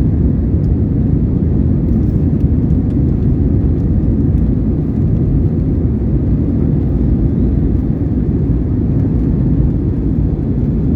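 Cabin noise of an Airbus A320-232 climbing out after takeoff: the steady low rumble of its IAE V2500 turbofans at climb thrust, mixed with airflow over the fuselage. A faint steady whine sits above the rumble.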